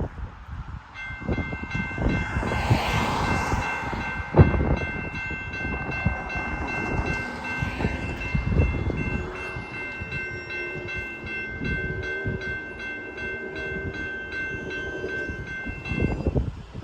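Freight locomotive air horn held in one long chord of several notes for about fifteen seconds, sounded for the grade crossing, cutting off near the end. Under it the diesel-electric locomotives rumble past, with one sharp thump about four seconds in.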